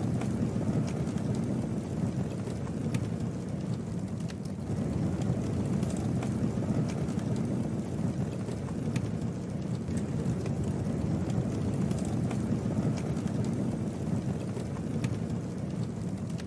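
Campfire burning, with a steady low rush of flames and a scattering of sharp crackles and pops from the burning wood.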